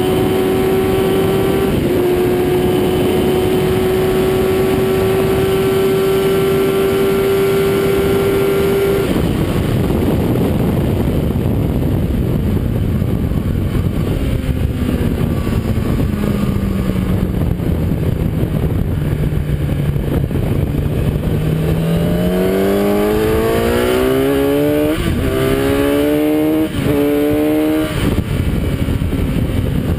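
Kawasaki ZX-10R inline-four sport bike heard from on board at high speed, with loud wind noise. The engine note climbs steadily under full throttle through one brief upshift. About nine seconds in it rolls off, and the note falls while the bike slows. Near the end it accelerates hard again, with two quick upshifts.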